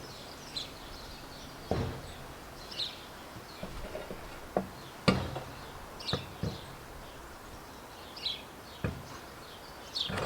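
Small birds chirping over a steady outdoor hiss, with a scattered handful of sharp knocks and clunks, the loudest about five seconds in.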